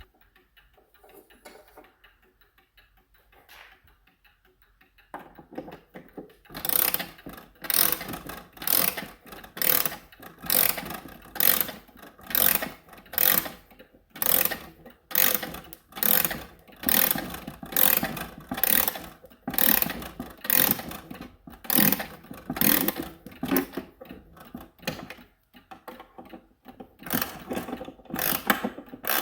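Seth Thomas beehive mantel clock being wound: the mainspring ratchet clicks in repeated bursts, about one and a half a second, starting a few seconds in. The bursts stop briefly near the end, then resume.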